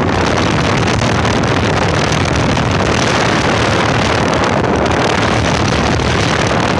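Carrier Sentry 5-ton central air conditioner condensing unit running, with a loud steady rush of air from its condenser fan over a low hum.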